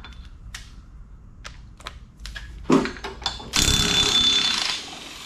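A few metal clicks and knocks, then a power impact wrench hammering for about a second as it spins off the bolt holding the engine-shaft pulley on the mower.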